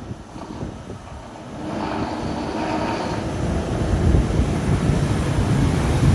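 Scania P230 truck running with heavy low diesel rumble and wind noise. It is quieter for the first second or so, then builds up about two seconds in and grows heavier near the end.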